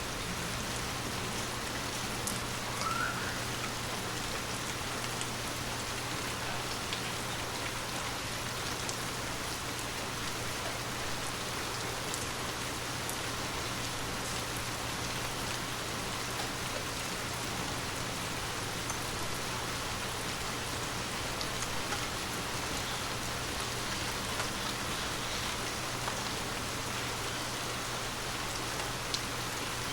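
Water droplets tapping on a glass surface: a steady, even patter with scattered sharper ticks, over a faint low hum.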